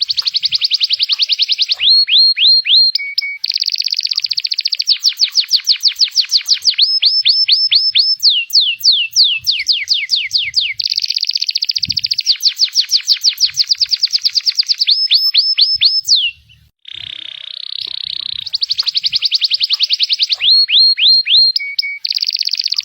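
A domestic canary of the pied 'panda' type singing a long song of fast rolling trills and repeated sweeping chirps. There is a brief pause about sixteen seconds in, then the song starts again.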